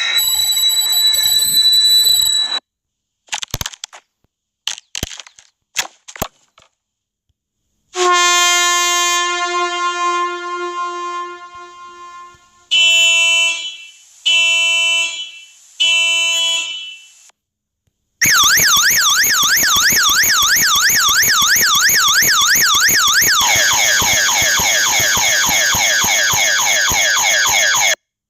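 A string of loud sound effects: a screech, a few sharp clicks, a long horn-like blast that fades away, then three short honks. From about eighteen seconds in, an electronic alarm warbles rapidly up and down. About five seconds later it switches to a faster sweeping pattern.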